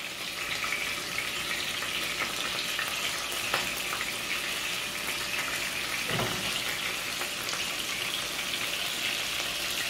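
Skewered haryali chicken tikka pieces sizzling steadily as they shallow-fry in oil in a frying pan, with a few faint clicks and a soft knock about six seconds in.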